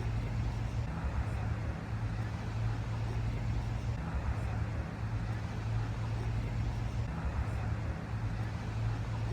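Steady road traffic noise: a continuous low hum with an even rumble of passing vehicles.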